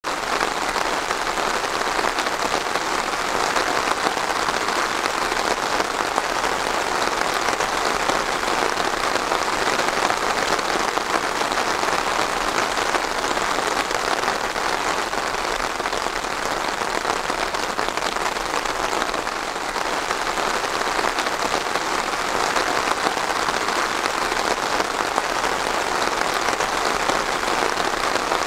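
Steady rain falling on a surface, an even dense patter with no let-up.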